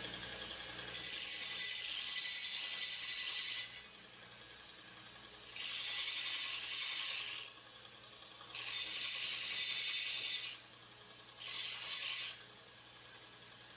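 Four bursts of harsh, hissy scraping noise, each one to three seconds long with short pauses between, from a tool cutting or working 2x2 square steel tubing.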